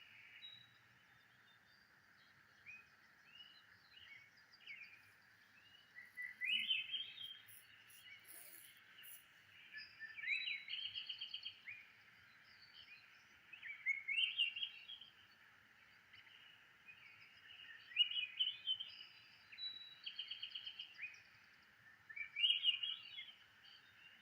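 Birds singing: a short rising chirped phrase repeated about every four seconds, with a trilled call between phrases, over a steady high-pitched background drone.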